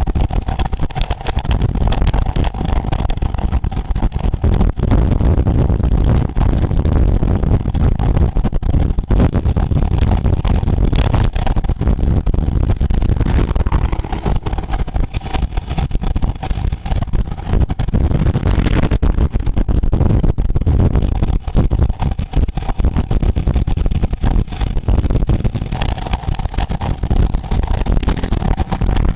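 Wind rushing and buffeting over the microphone of a camera carried along with a bicycle at race speed, a loud, steady low rush that flutters constantly, with road noise under it.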